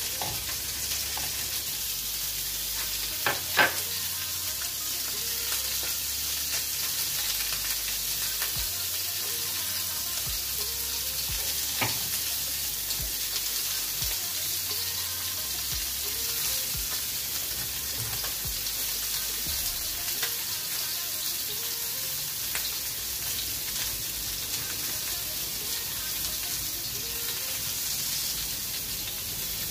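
Salmon steaks frying in oil in a frying pan, a steady sizzle. Two short knocks break in, about three and a half seconds in and again about twelve seconds in.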